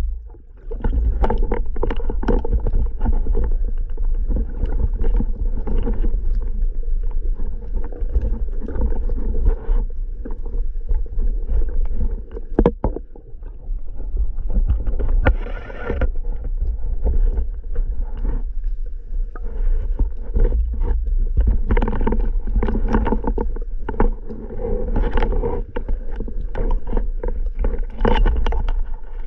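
Water noise: a steady low rumble with frequent splashes and knocks.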